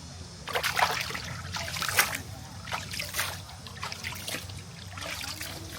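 Water splashing in a shallow valley stream: a run of irregular splashes lasting about five seconds, the loudest about two seconds in.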